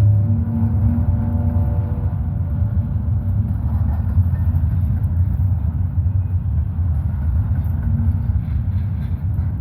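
Freight train rolling past with a steady, heavy low rumble from locomotive engines and wheels. A faint chord of steady tones sounds for the first couple of seconds, then fades.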